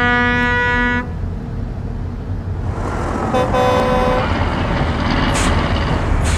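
Heavy truck air horn blast that stops about a second in, then a low engine rumble with a second, shorter horn toot midway and two brief bursts of air hiss near the end.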